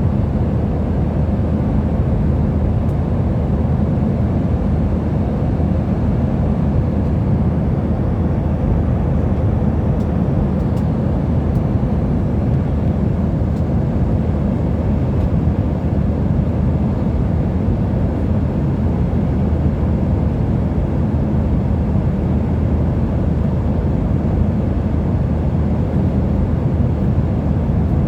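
Steady drone of an airliner in flight heard inside the passenger cabin: engine and airflow noise, even and unchanging.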